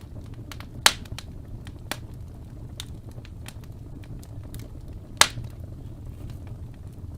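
Wood fire burning in a fireplace: a steady low rumble of the flames with scattered crackles, and two loud pops about a second in and near the five-second mark.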